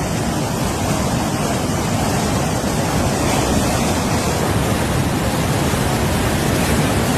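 Fast-flowing water rushing through a narrow breached channel: a loud, steady rush of water with no breaks.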